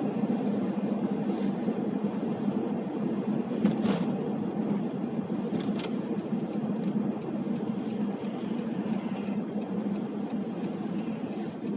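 Steady engine and road noise heard from inside a moving car's cabin, with a few faint ticks.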